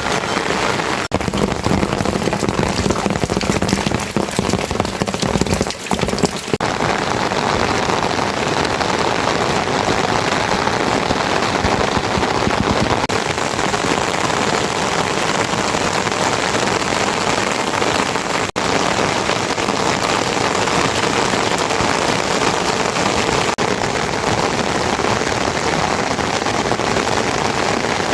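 Heavy rain falling steadily, a dense even hiss broken by a few split-second dropouts.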